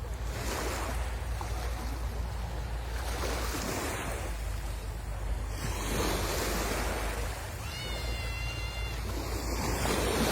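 Sea waves washing in, swelling every few seconds, with wind rumbling on the microphone. A brief high tone sounds about eight seconds in.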